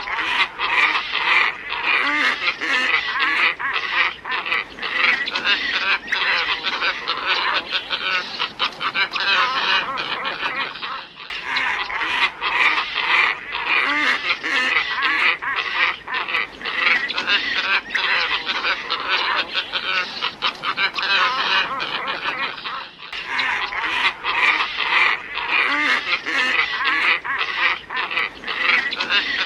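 A flock of glossy ibises calling, many overlapping calls in a dense, continuous chorus. It is a bird-lure recording played in a loop that restarts about every 11 to 12 seconds, with a brief dip at each join.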